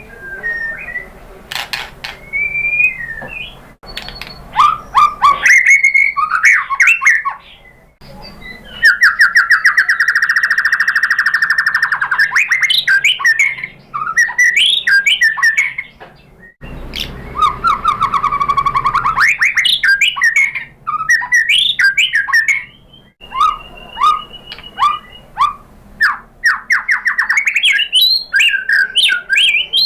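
White-rumped shama (murai batu) singing: varied whistled phrases, broken twice by a long rapid trill, one about a third of the way in and one just past the middle.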